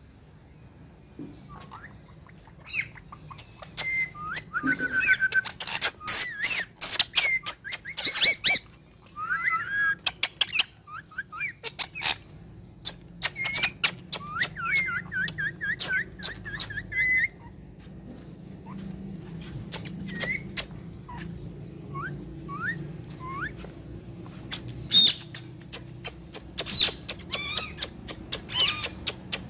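Indian ringneck parakeet whistling and chirping in short rising and wavering notes, with sharp clicks in between.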